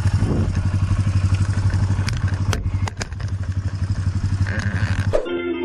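Harley-Davidson V-twin motorcycle engine running with an even, rapid low pulse, with a few sharp clicks and a brief dip in the engine sound around the middle. About five seconds in, it cuts off and music takes over.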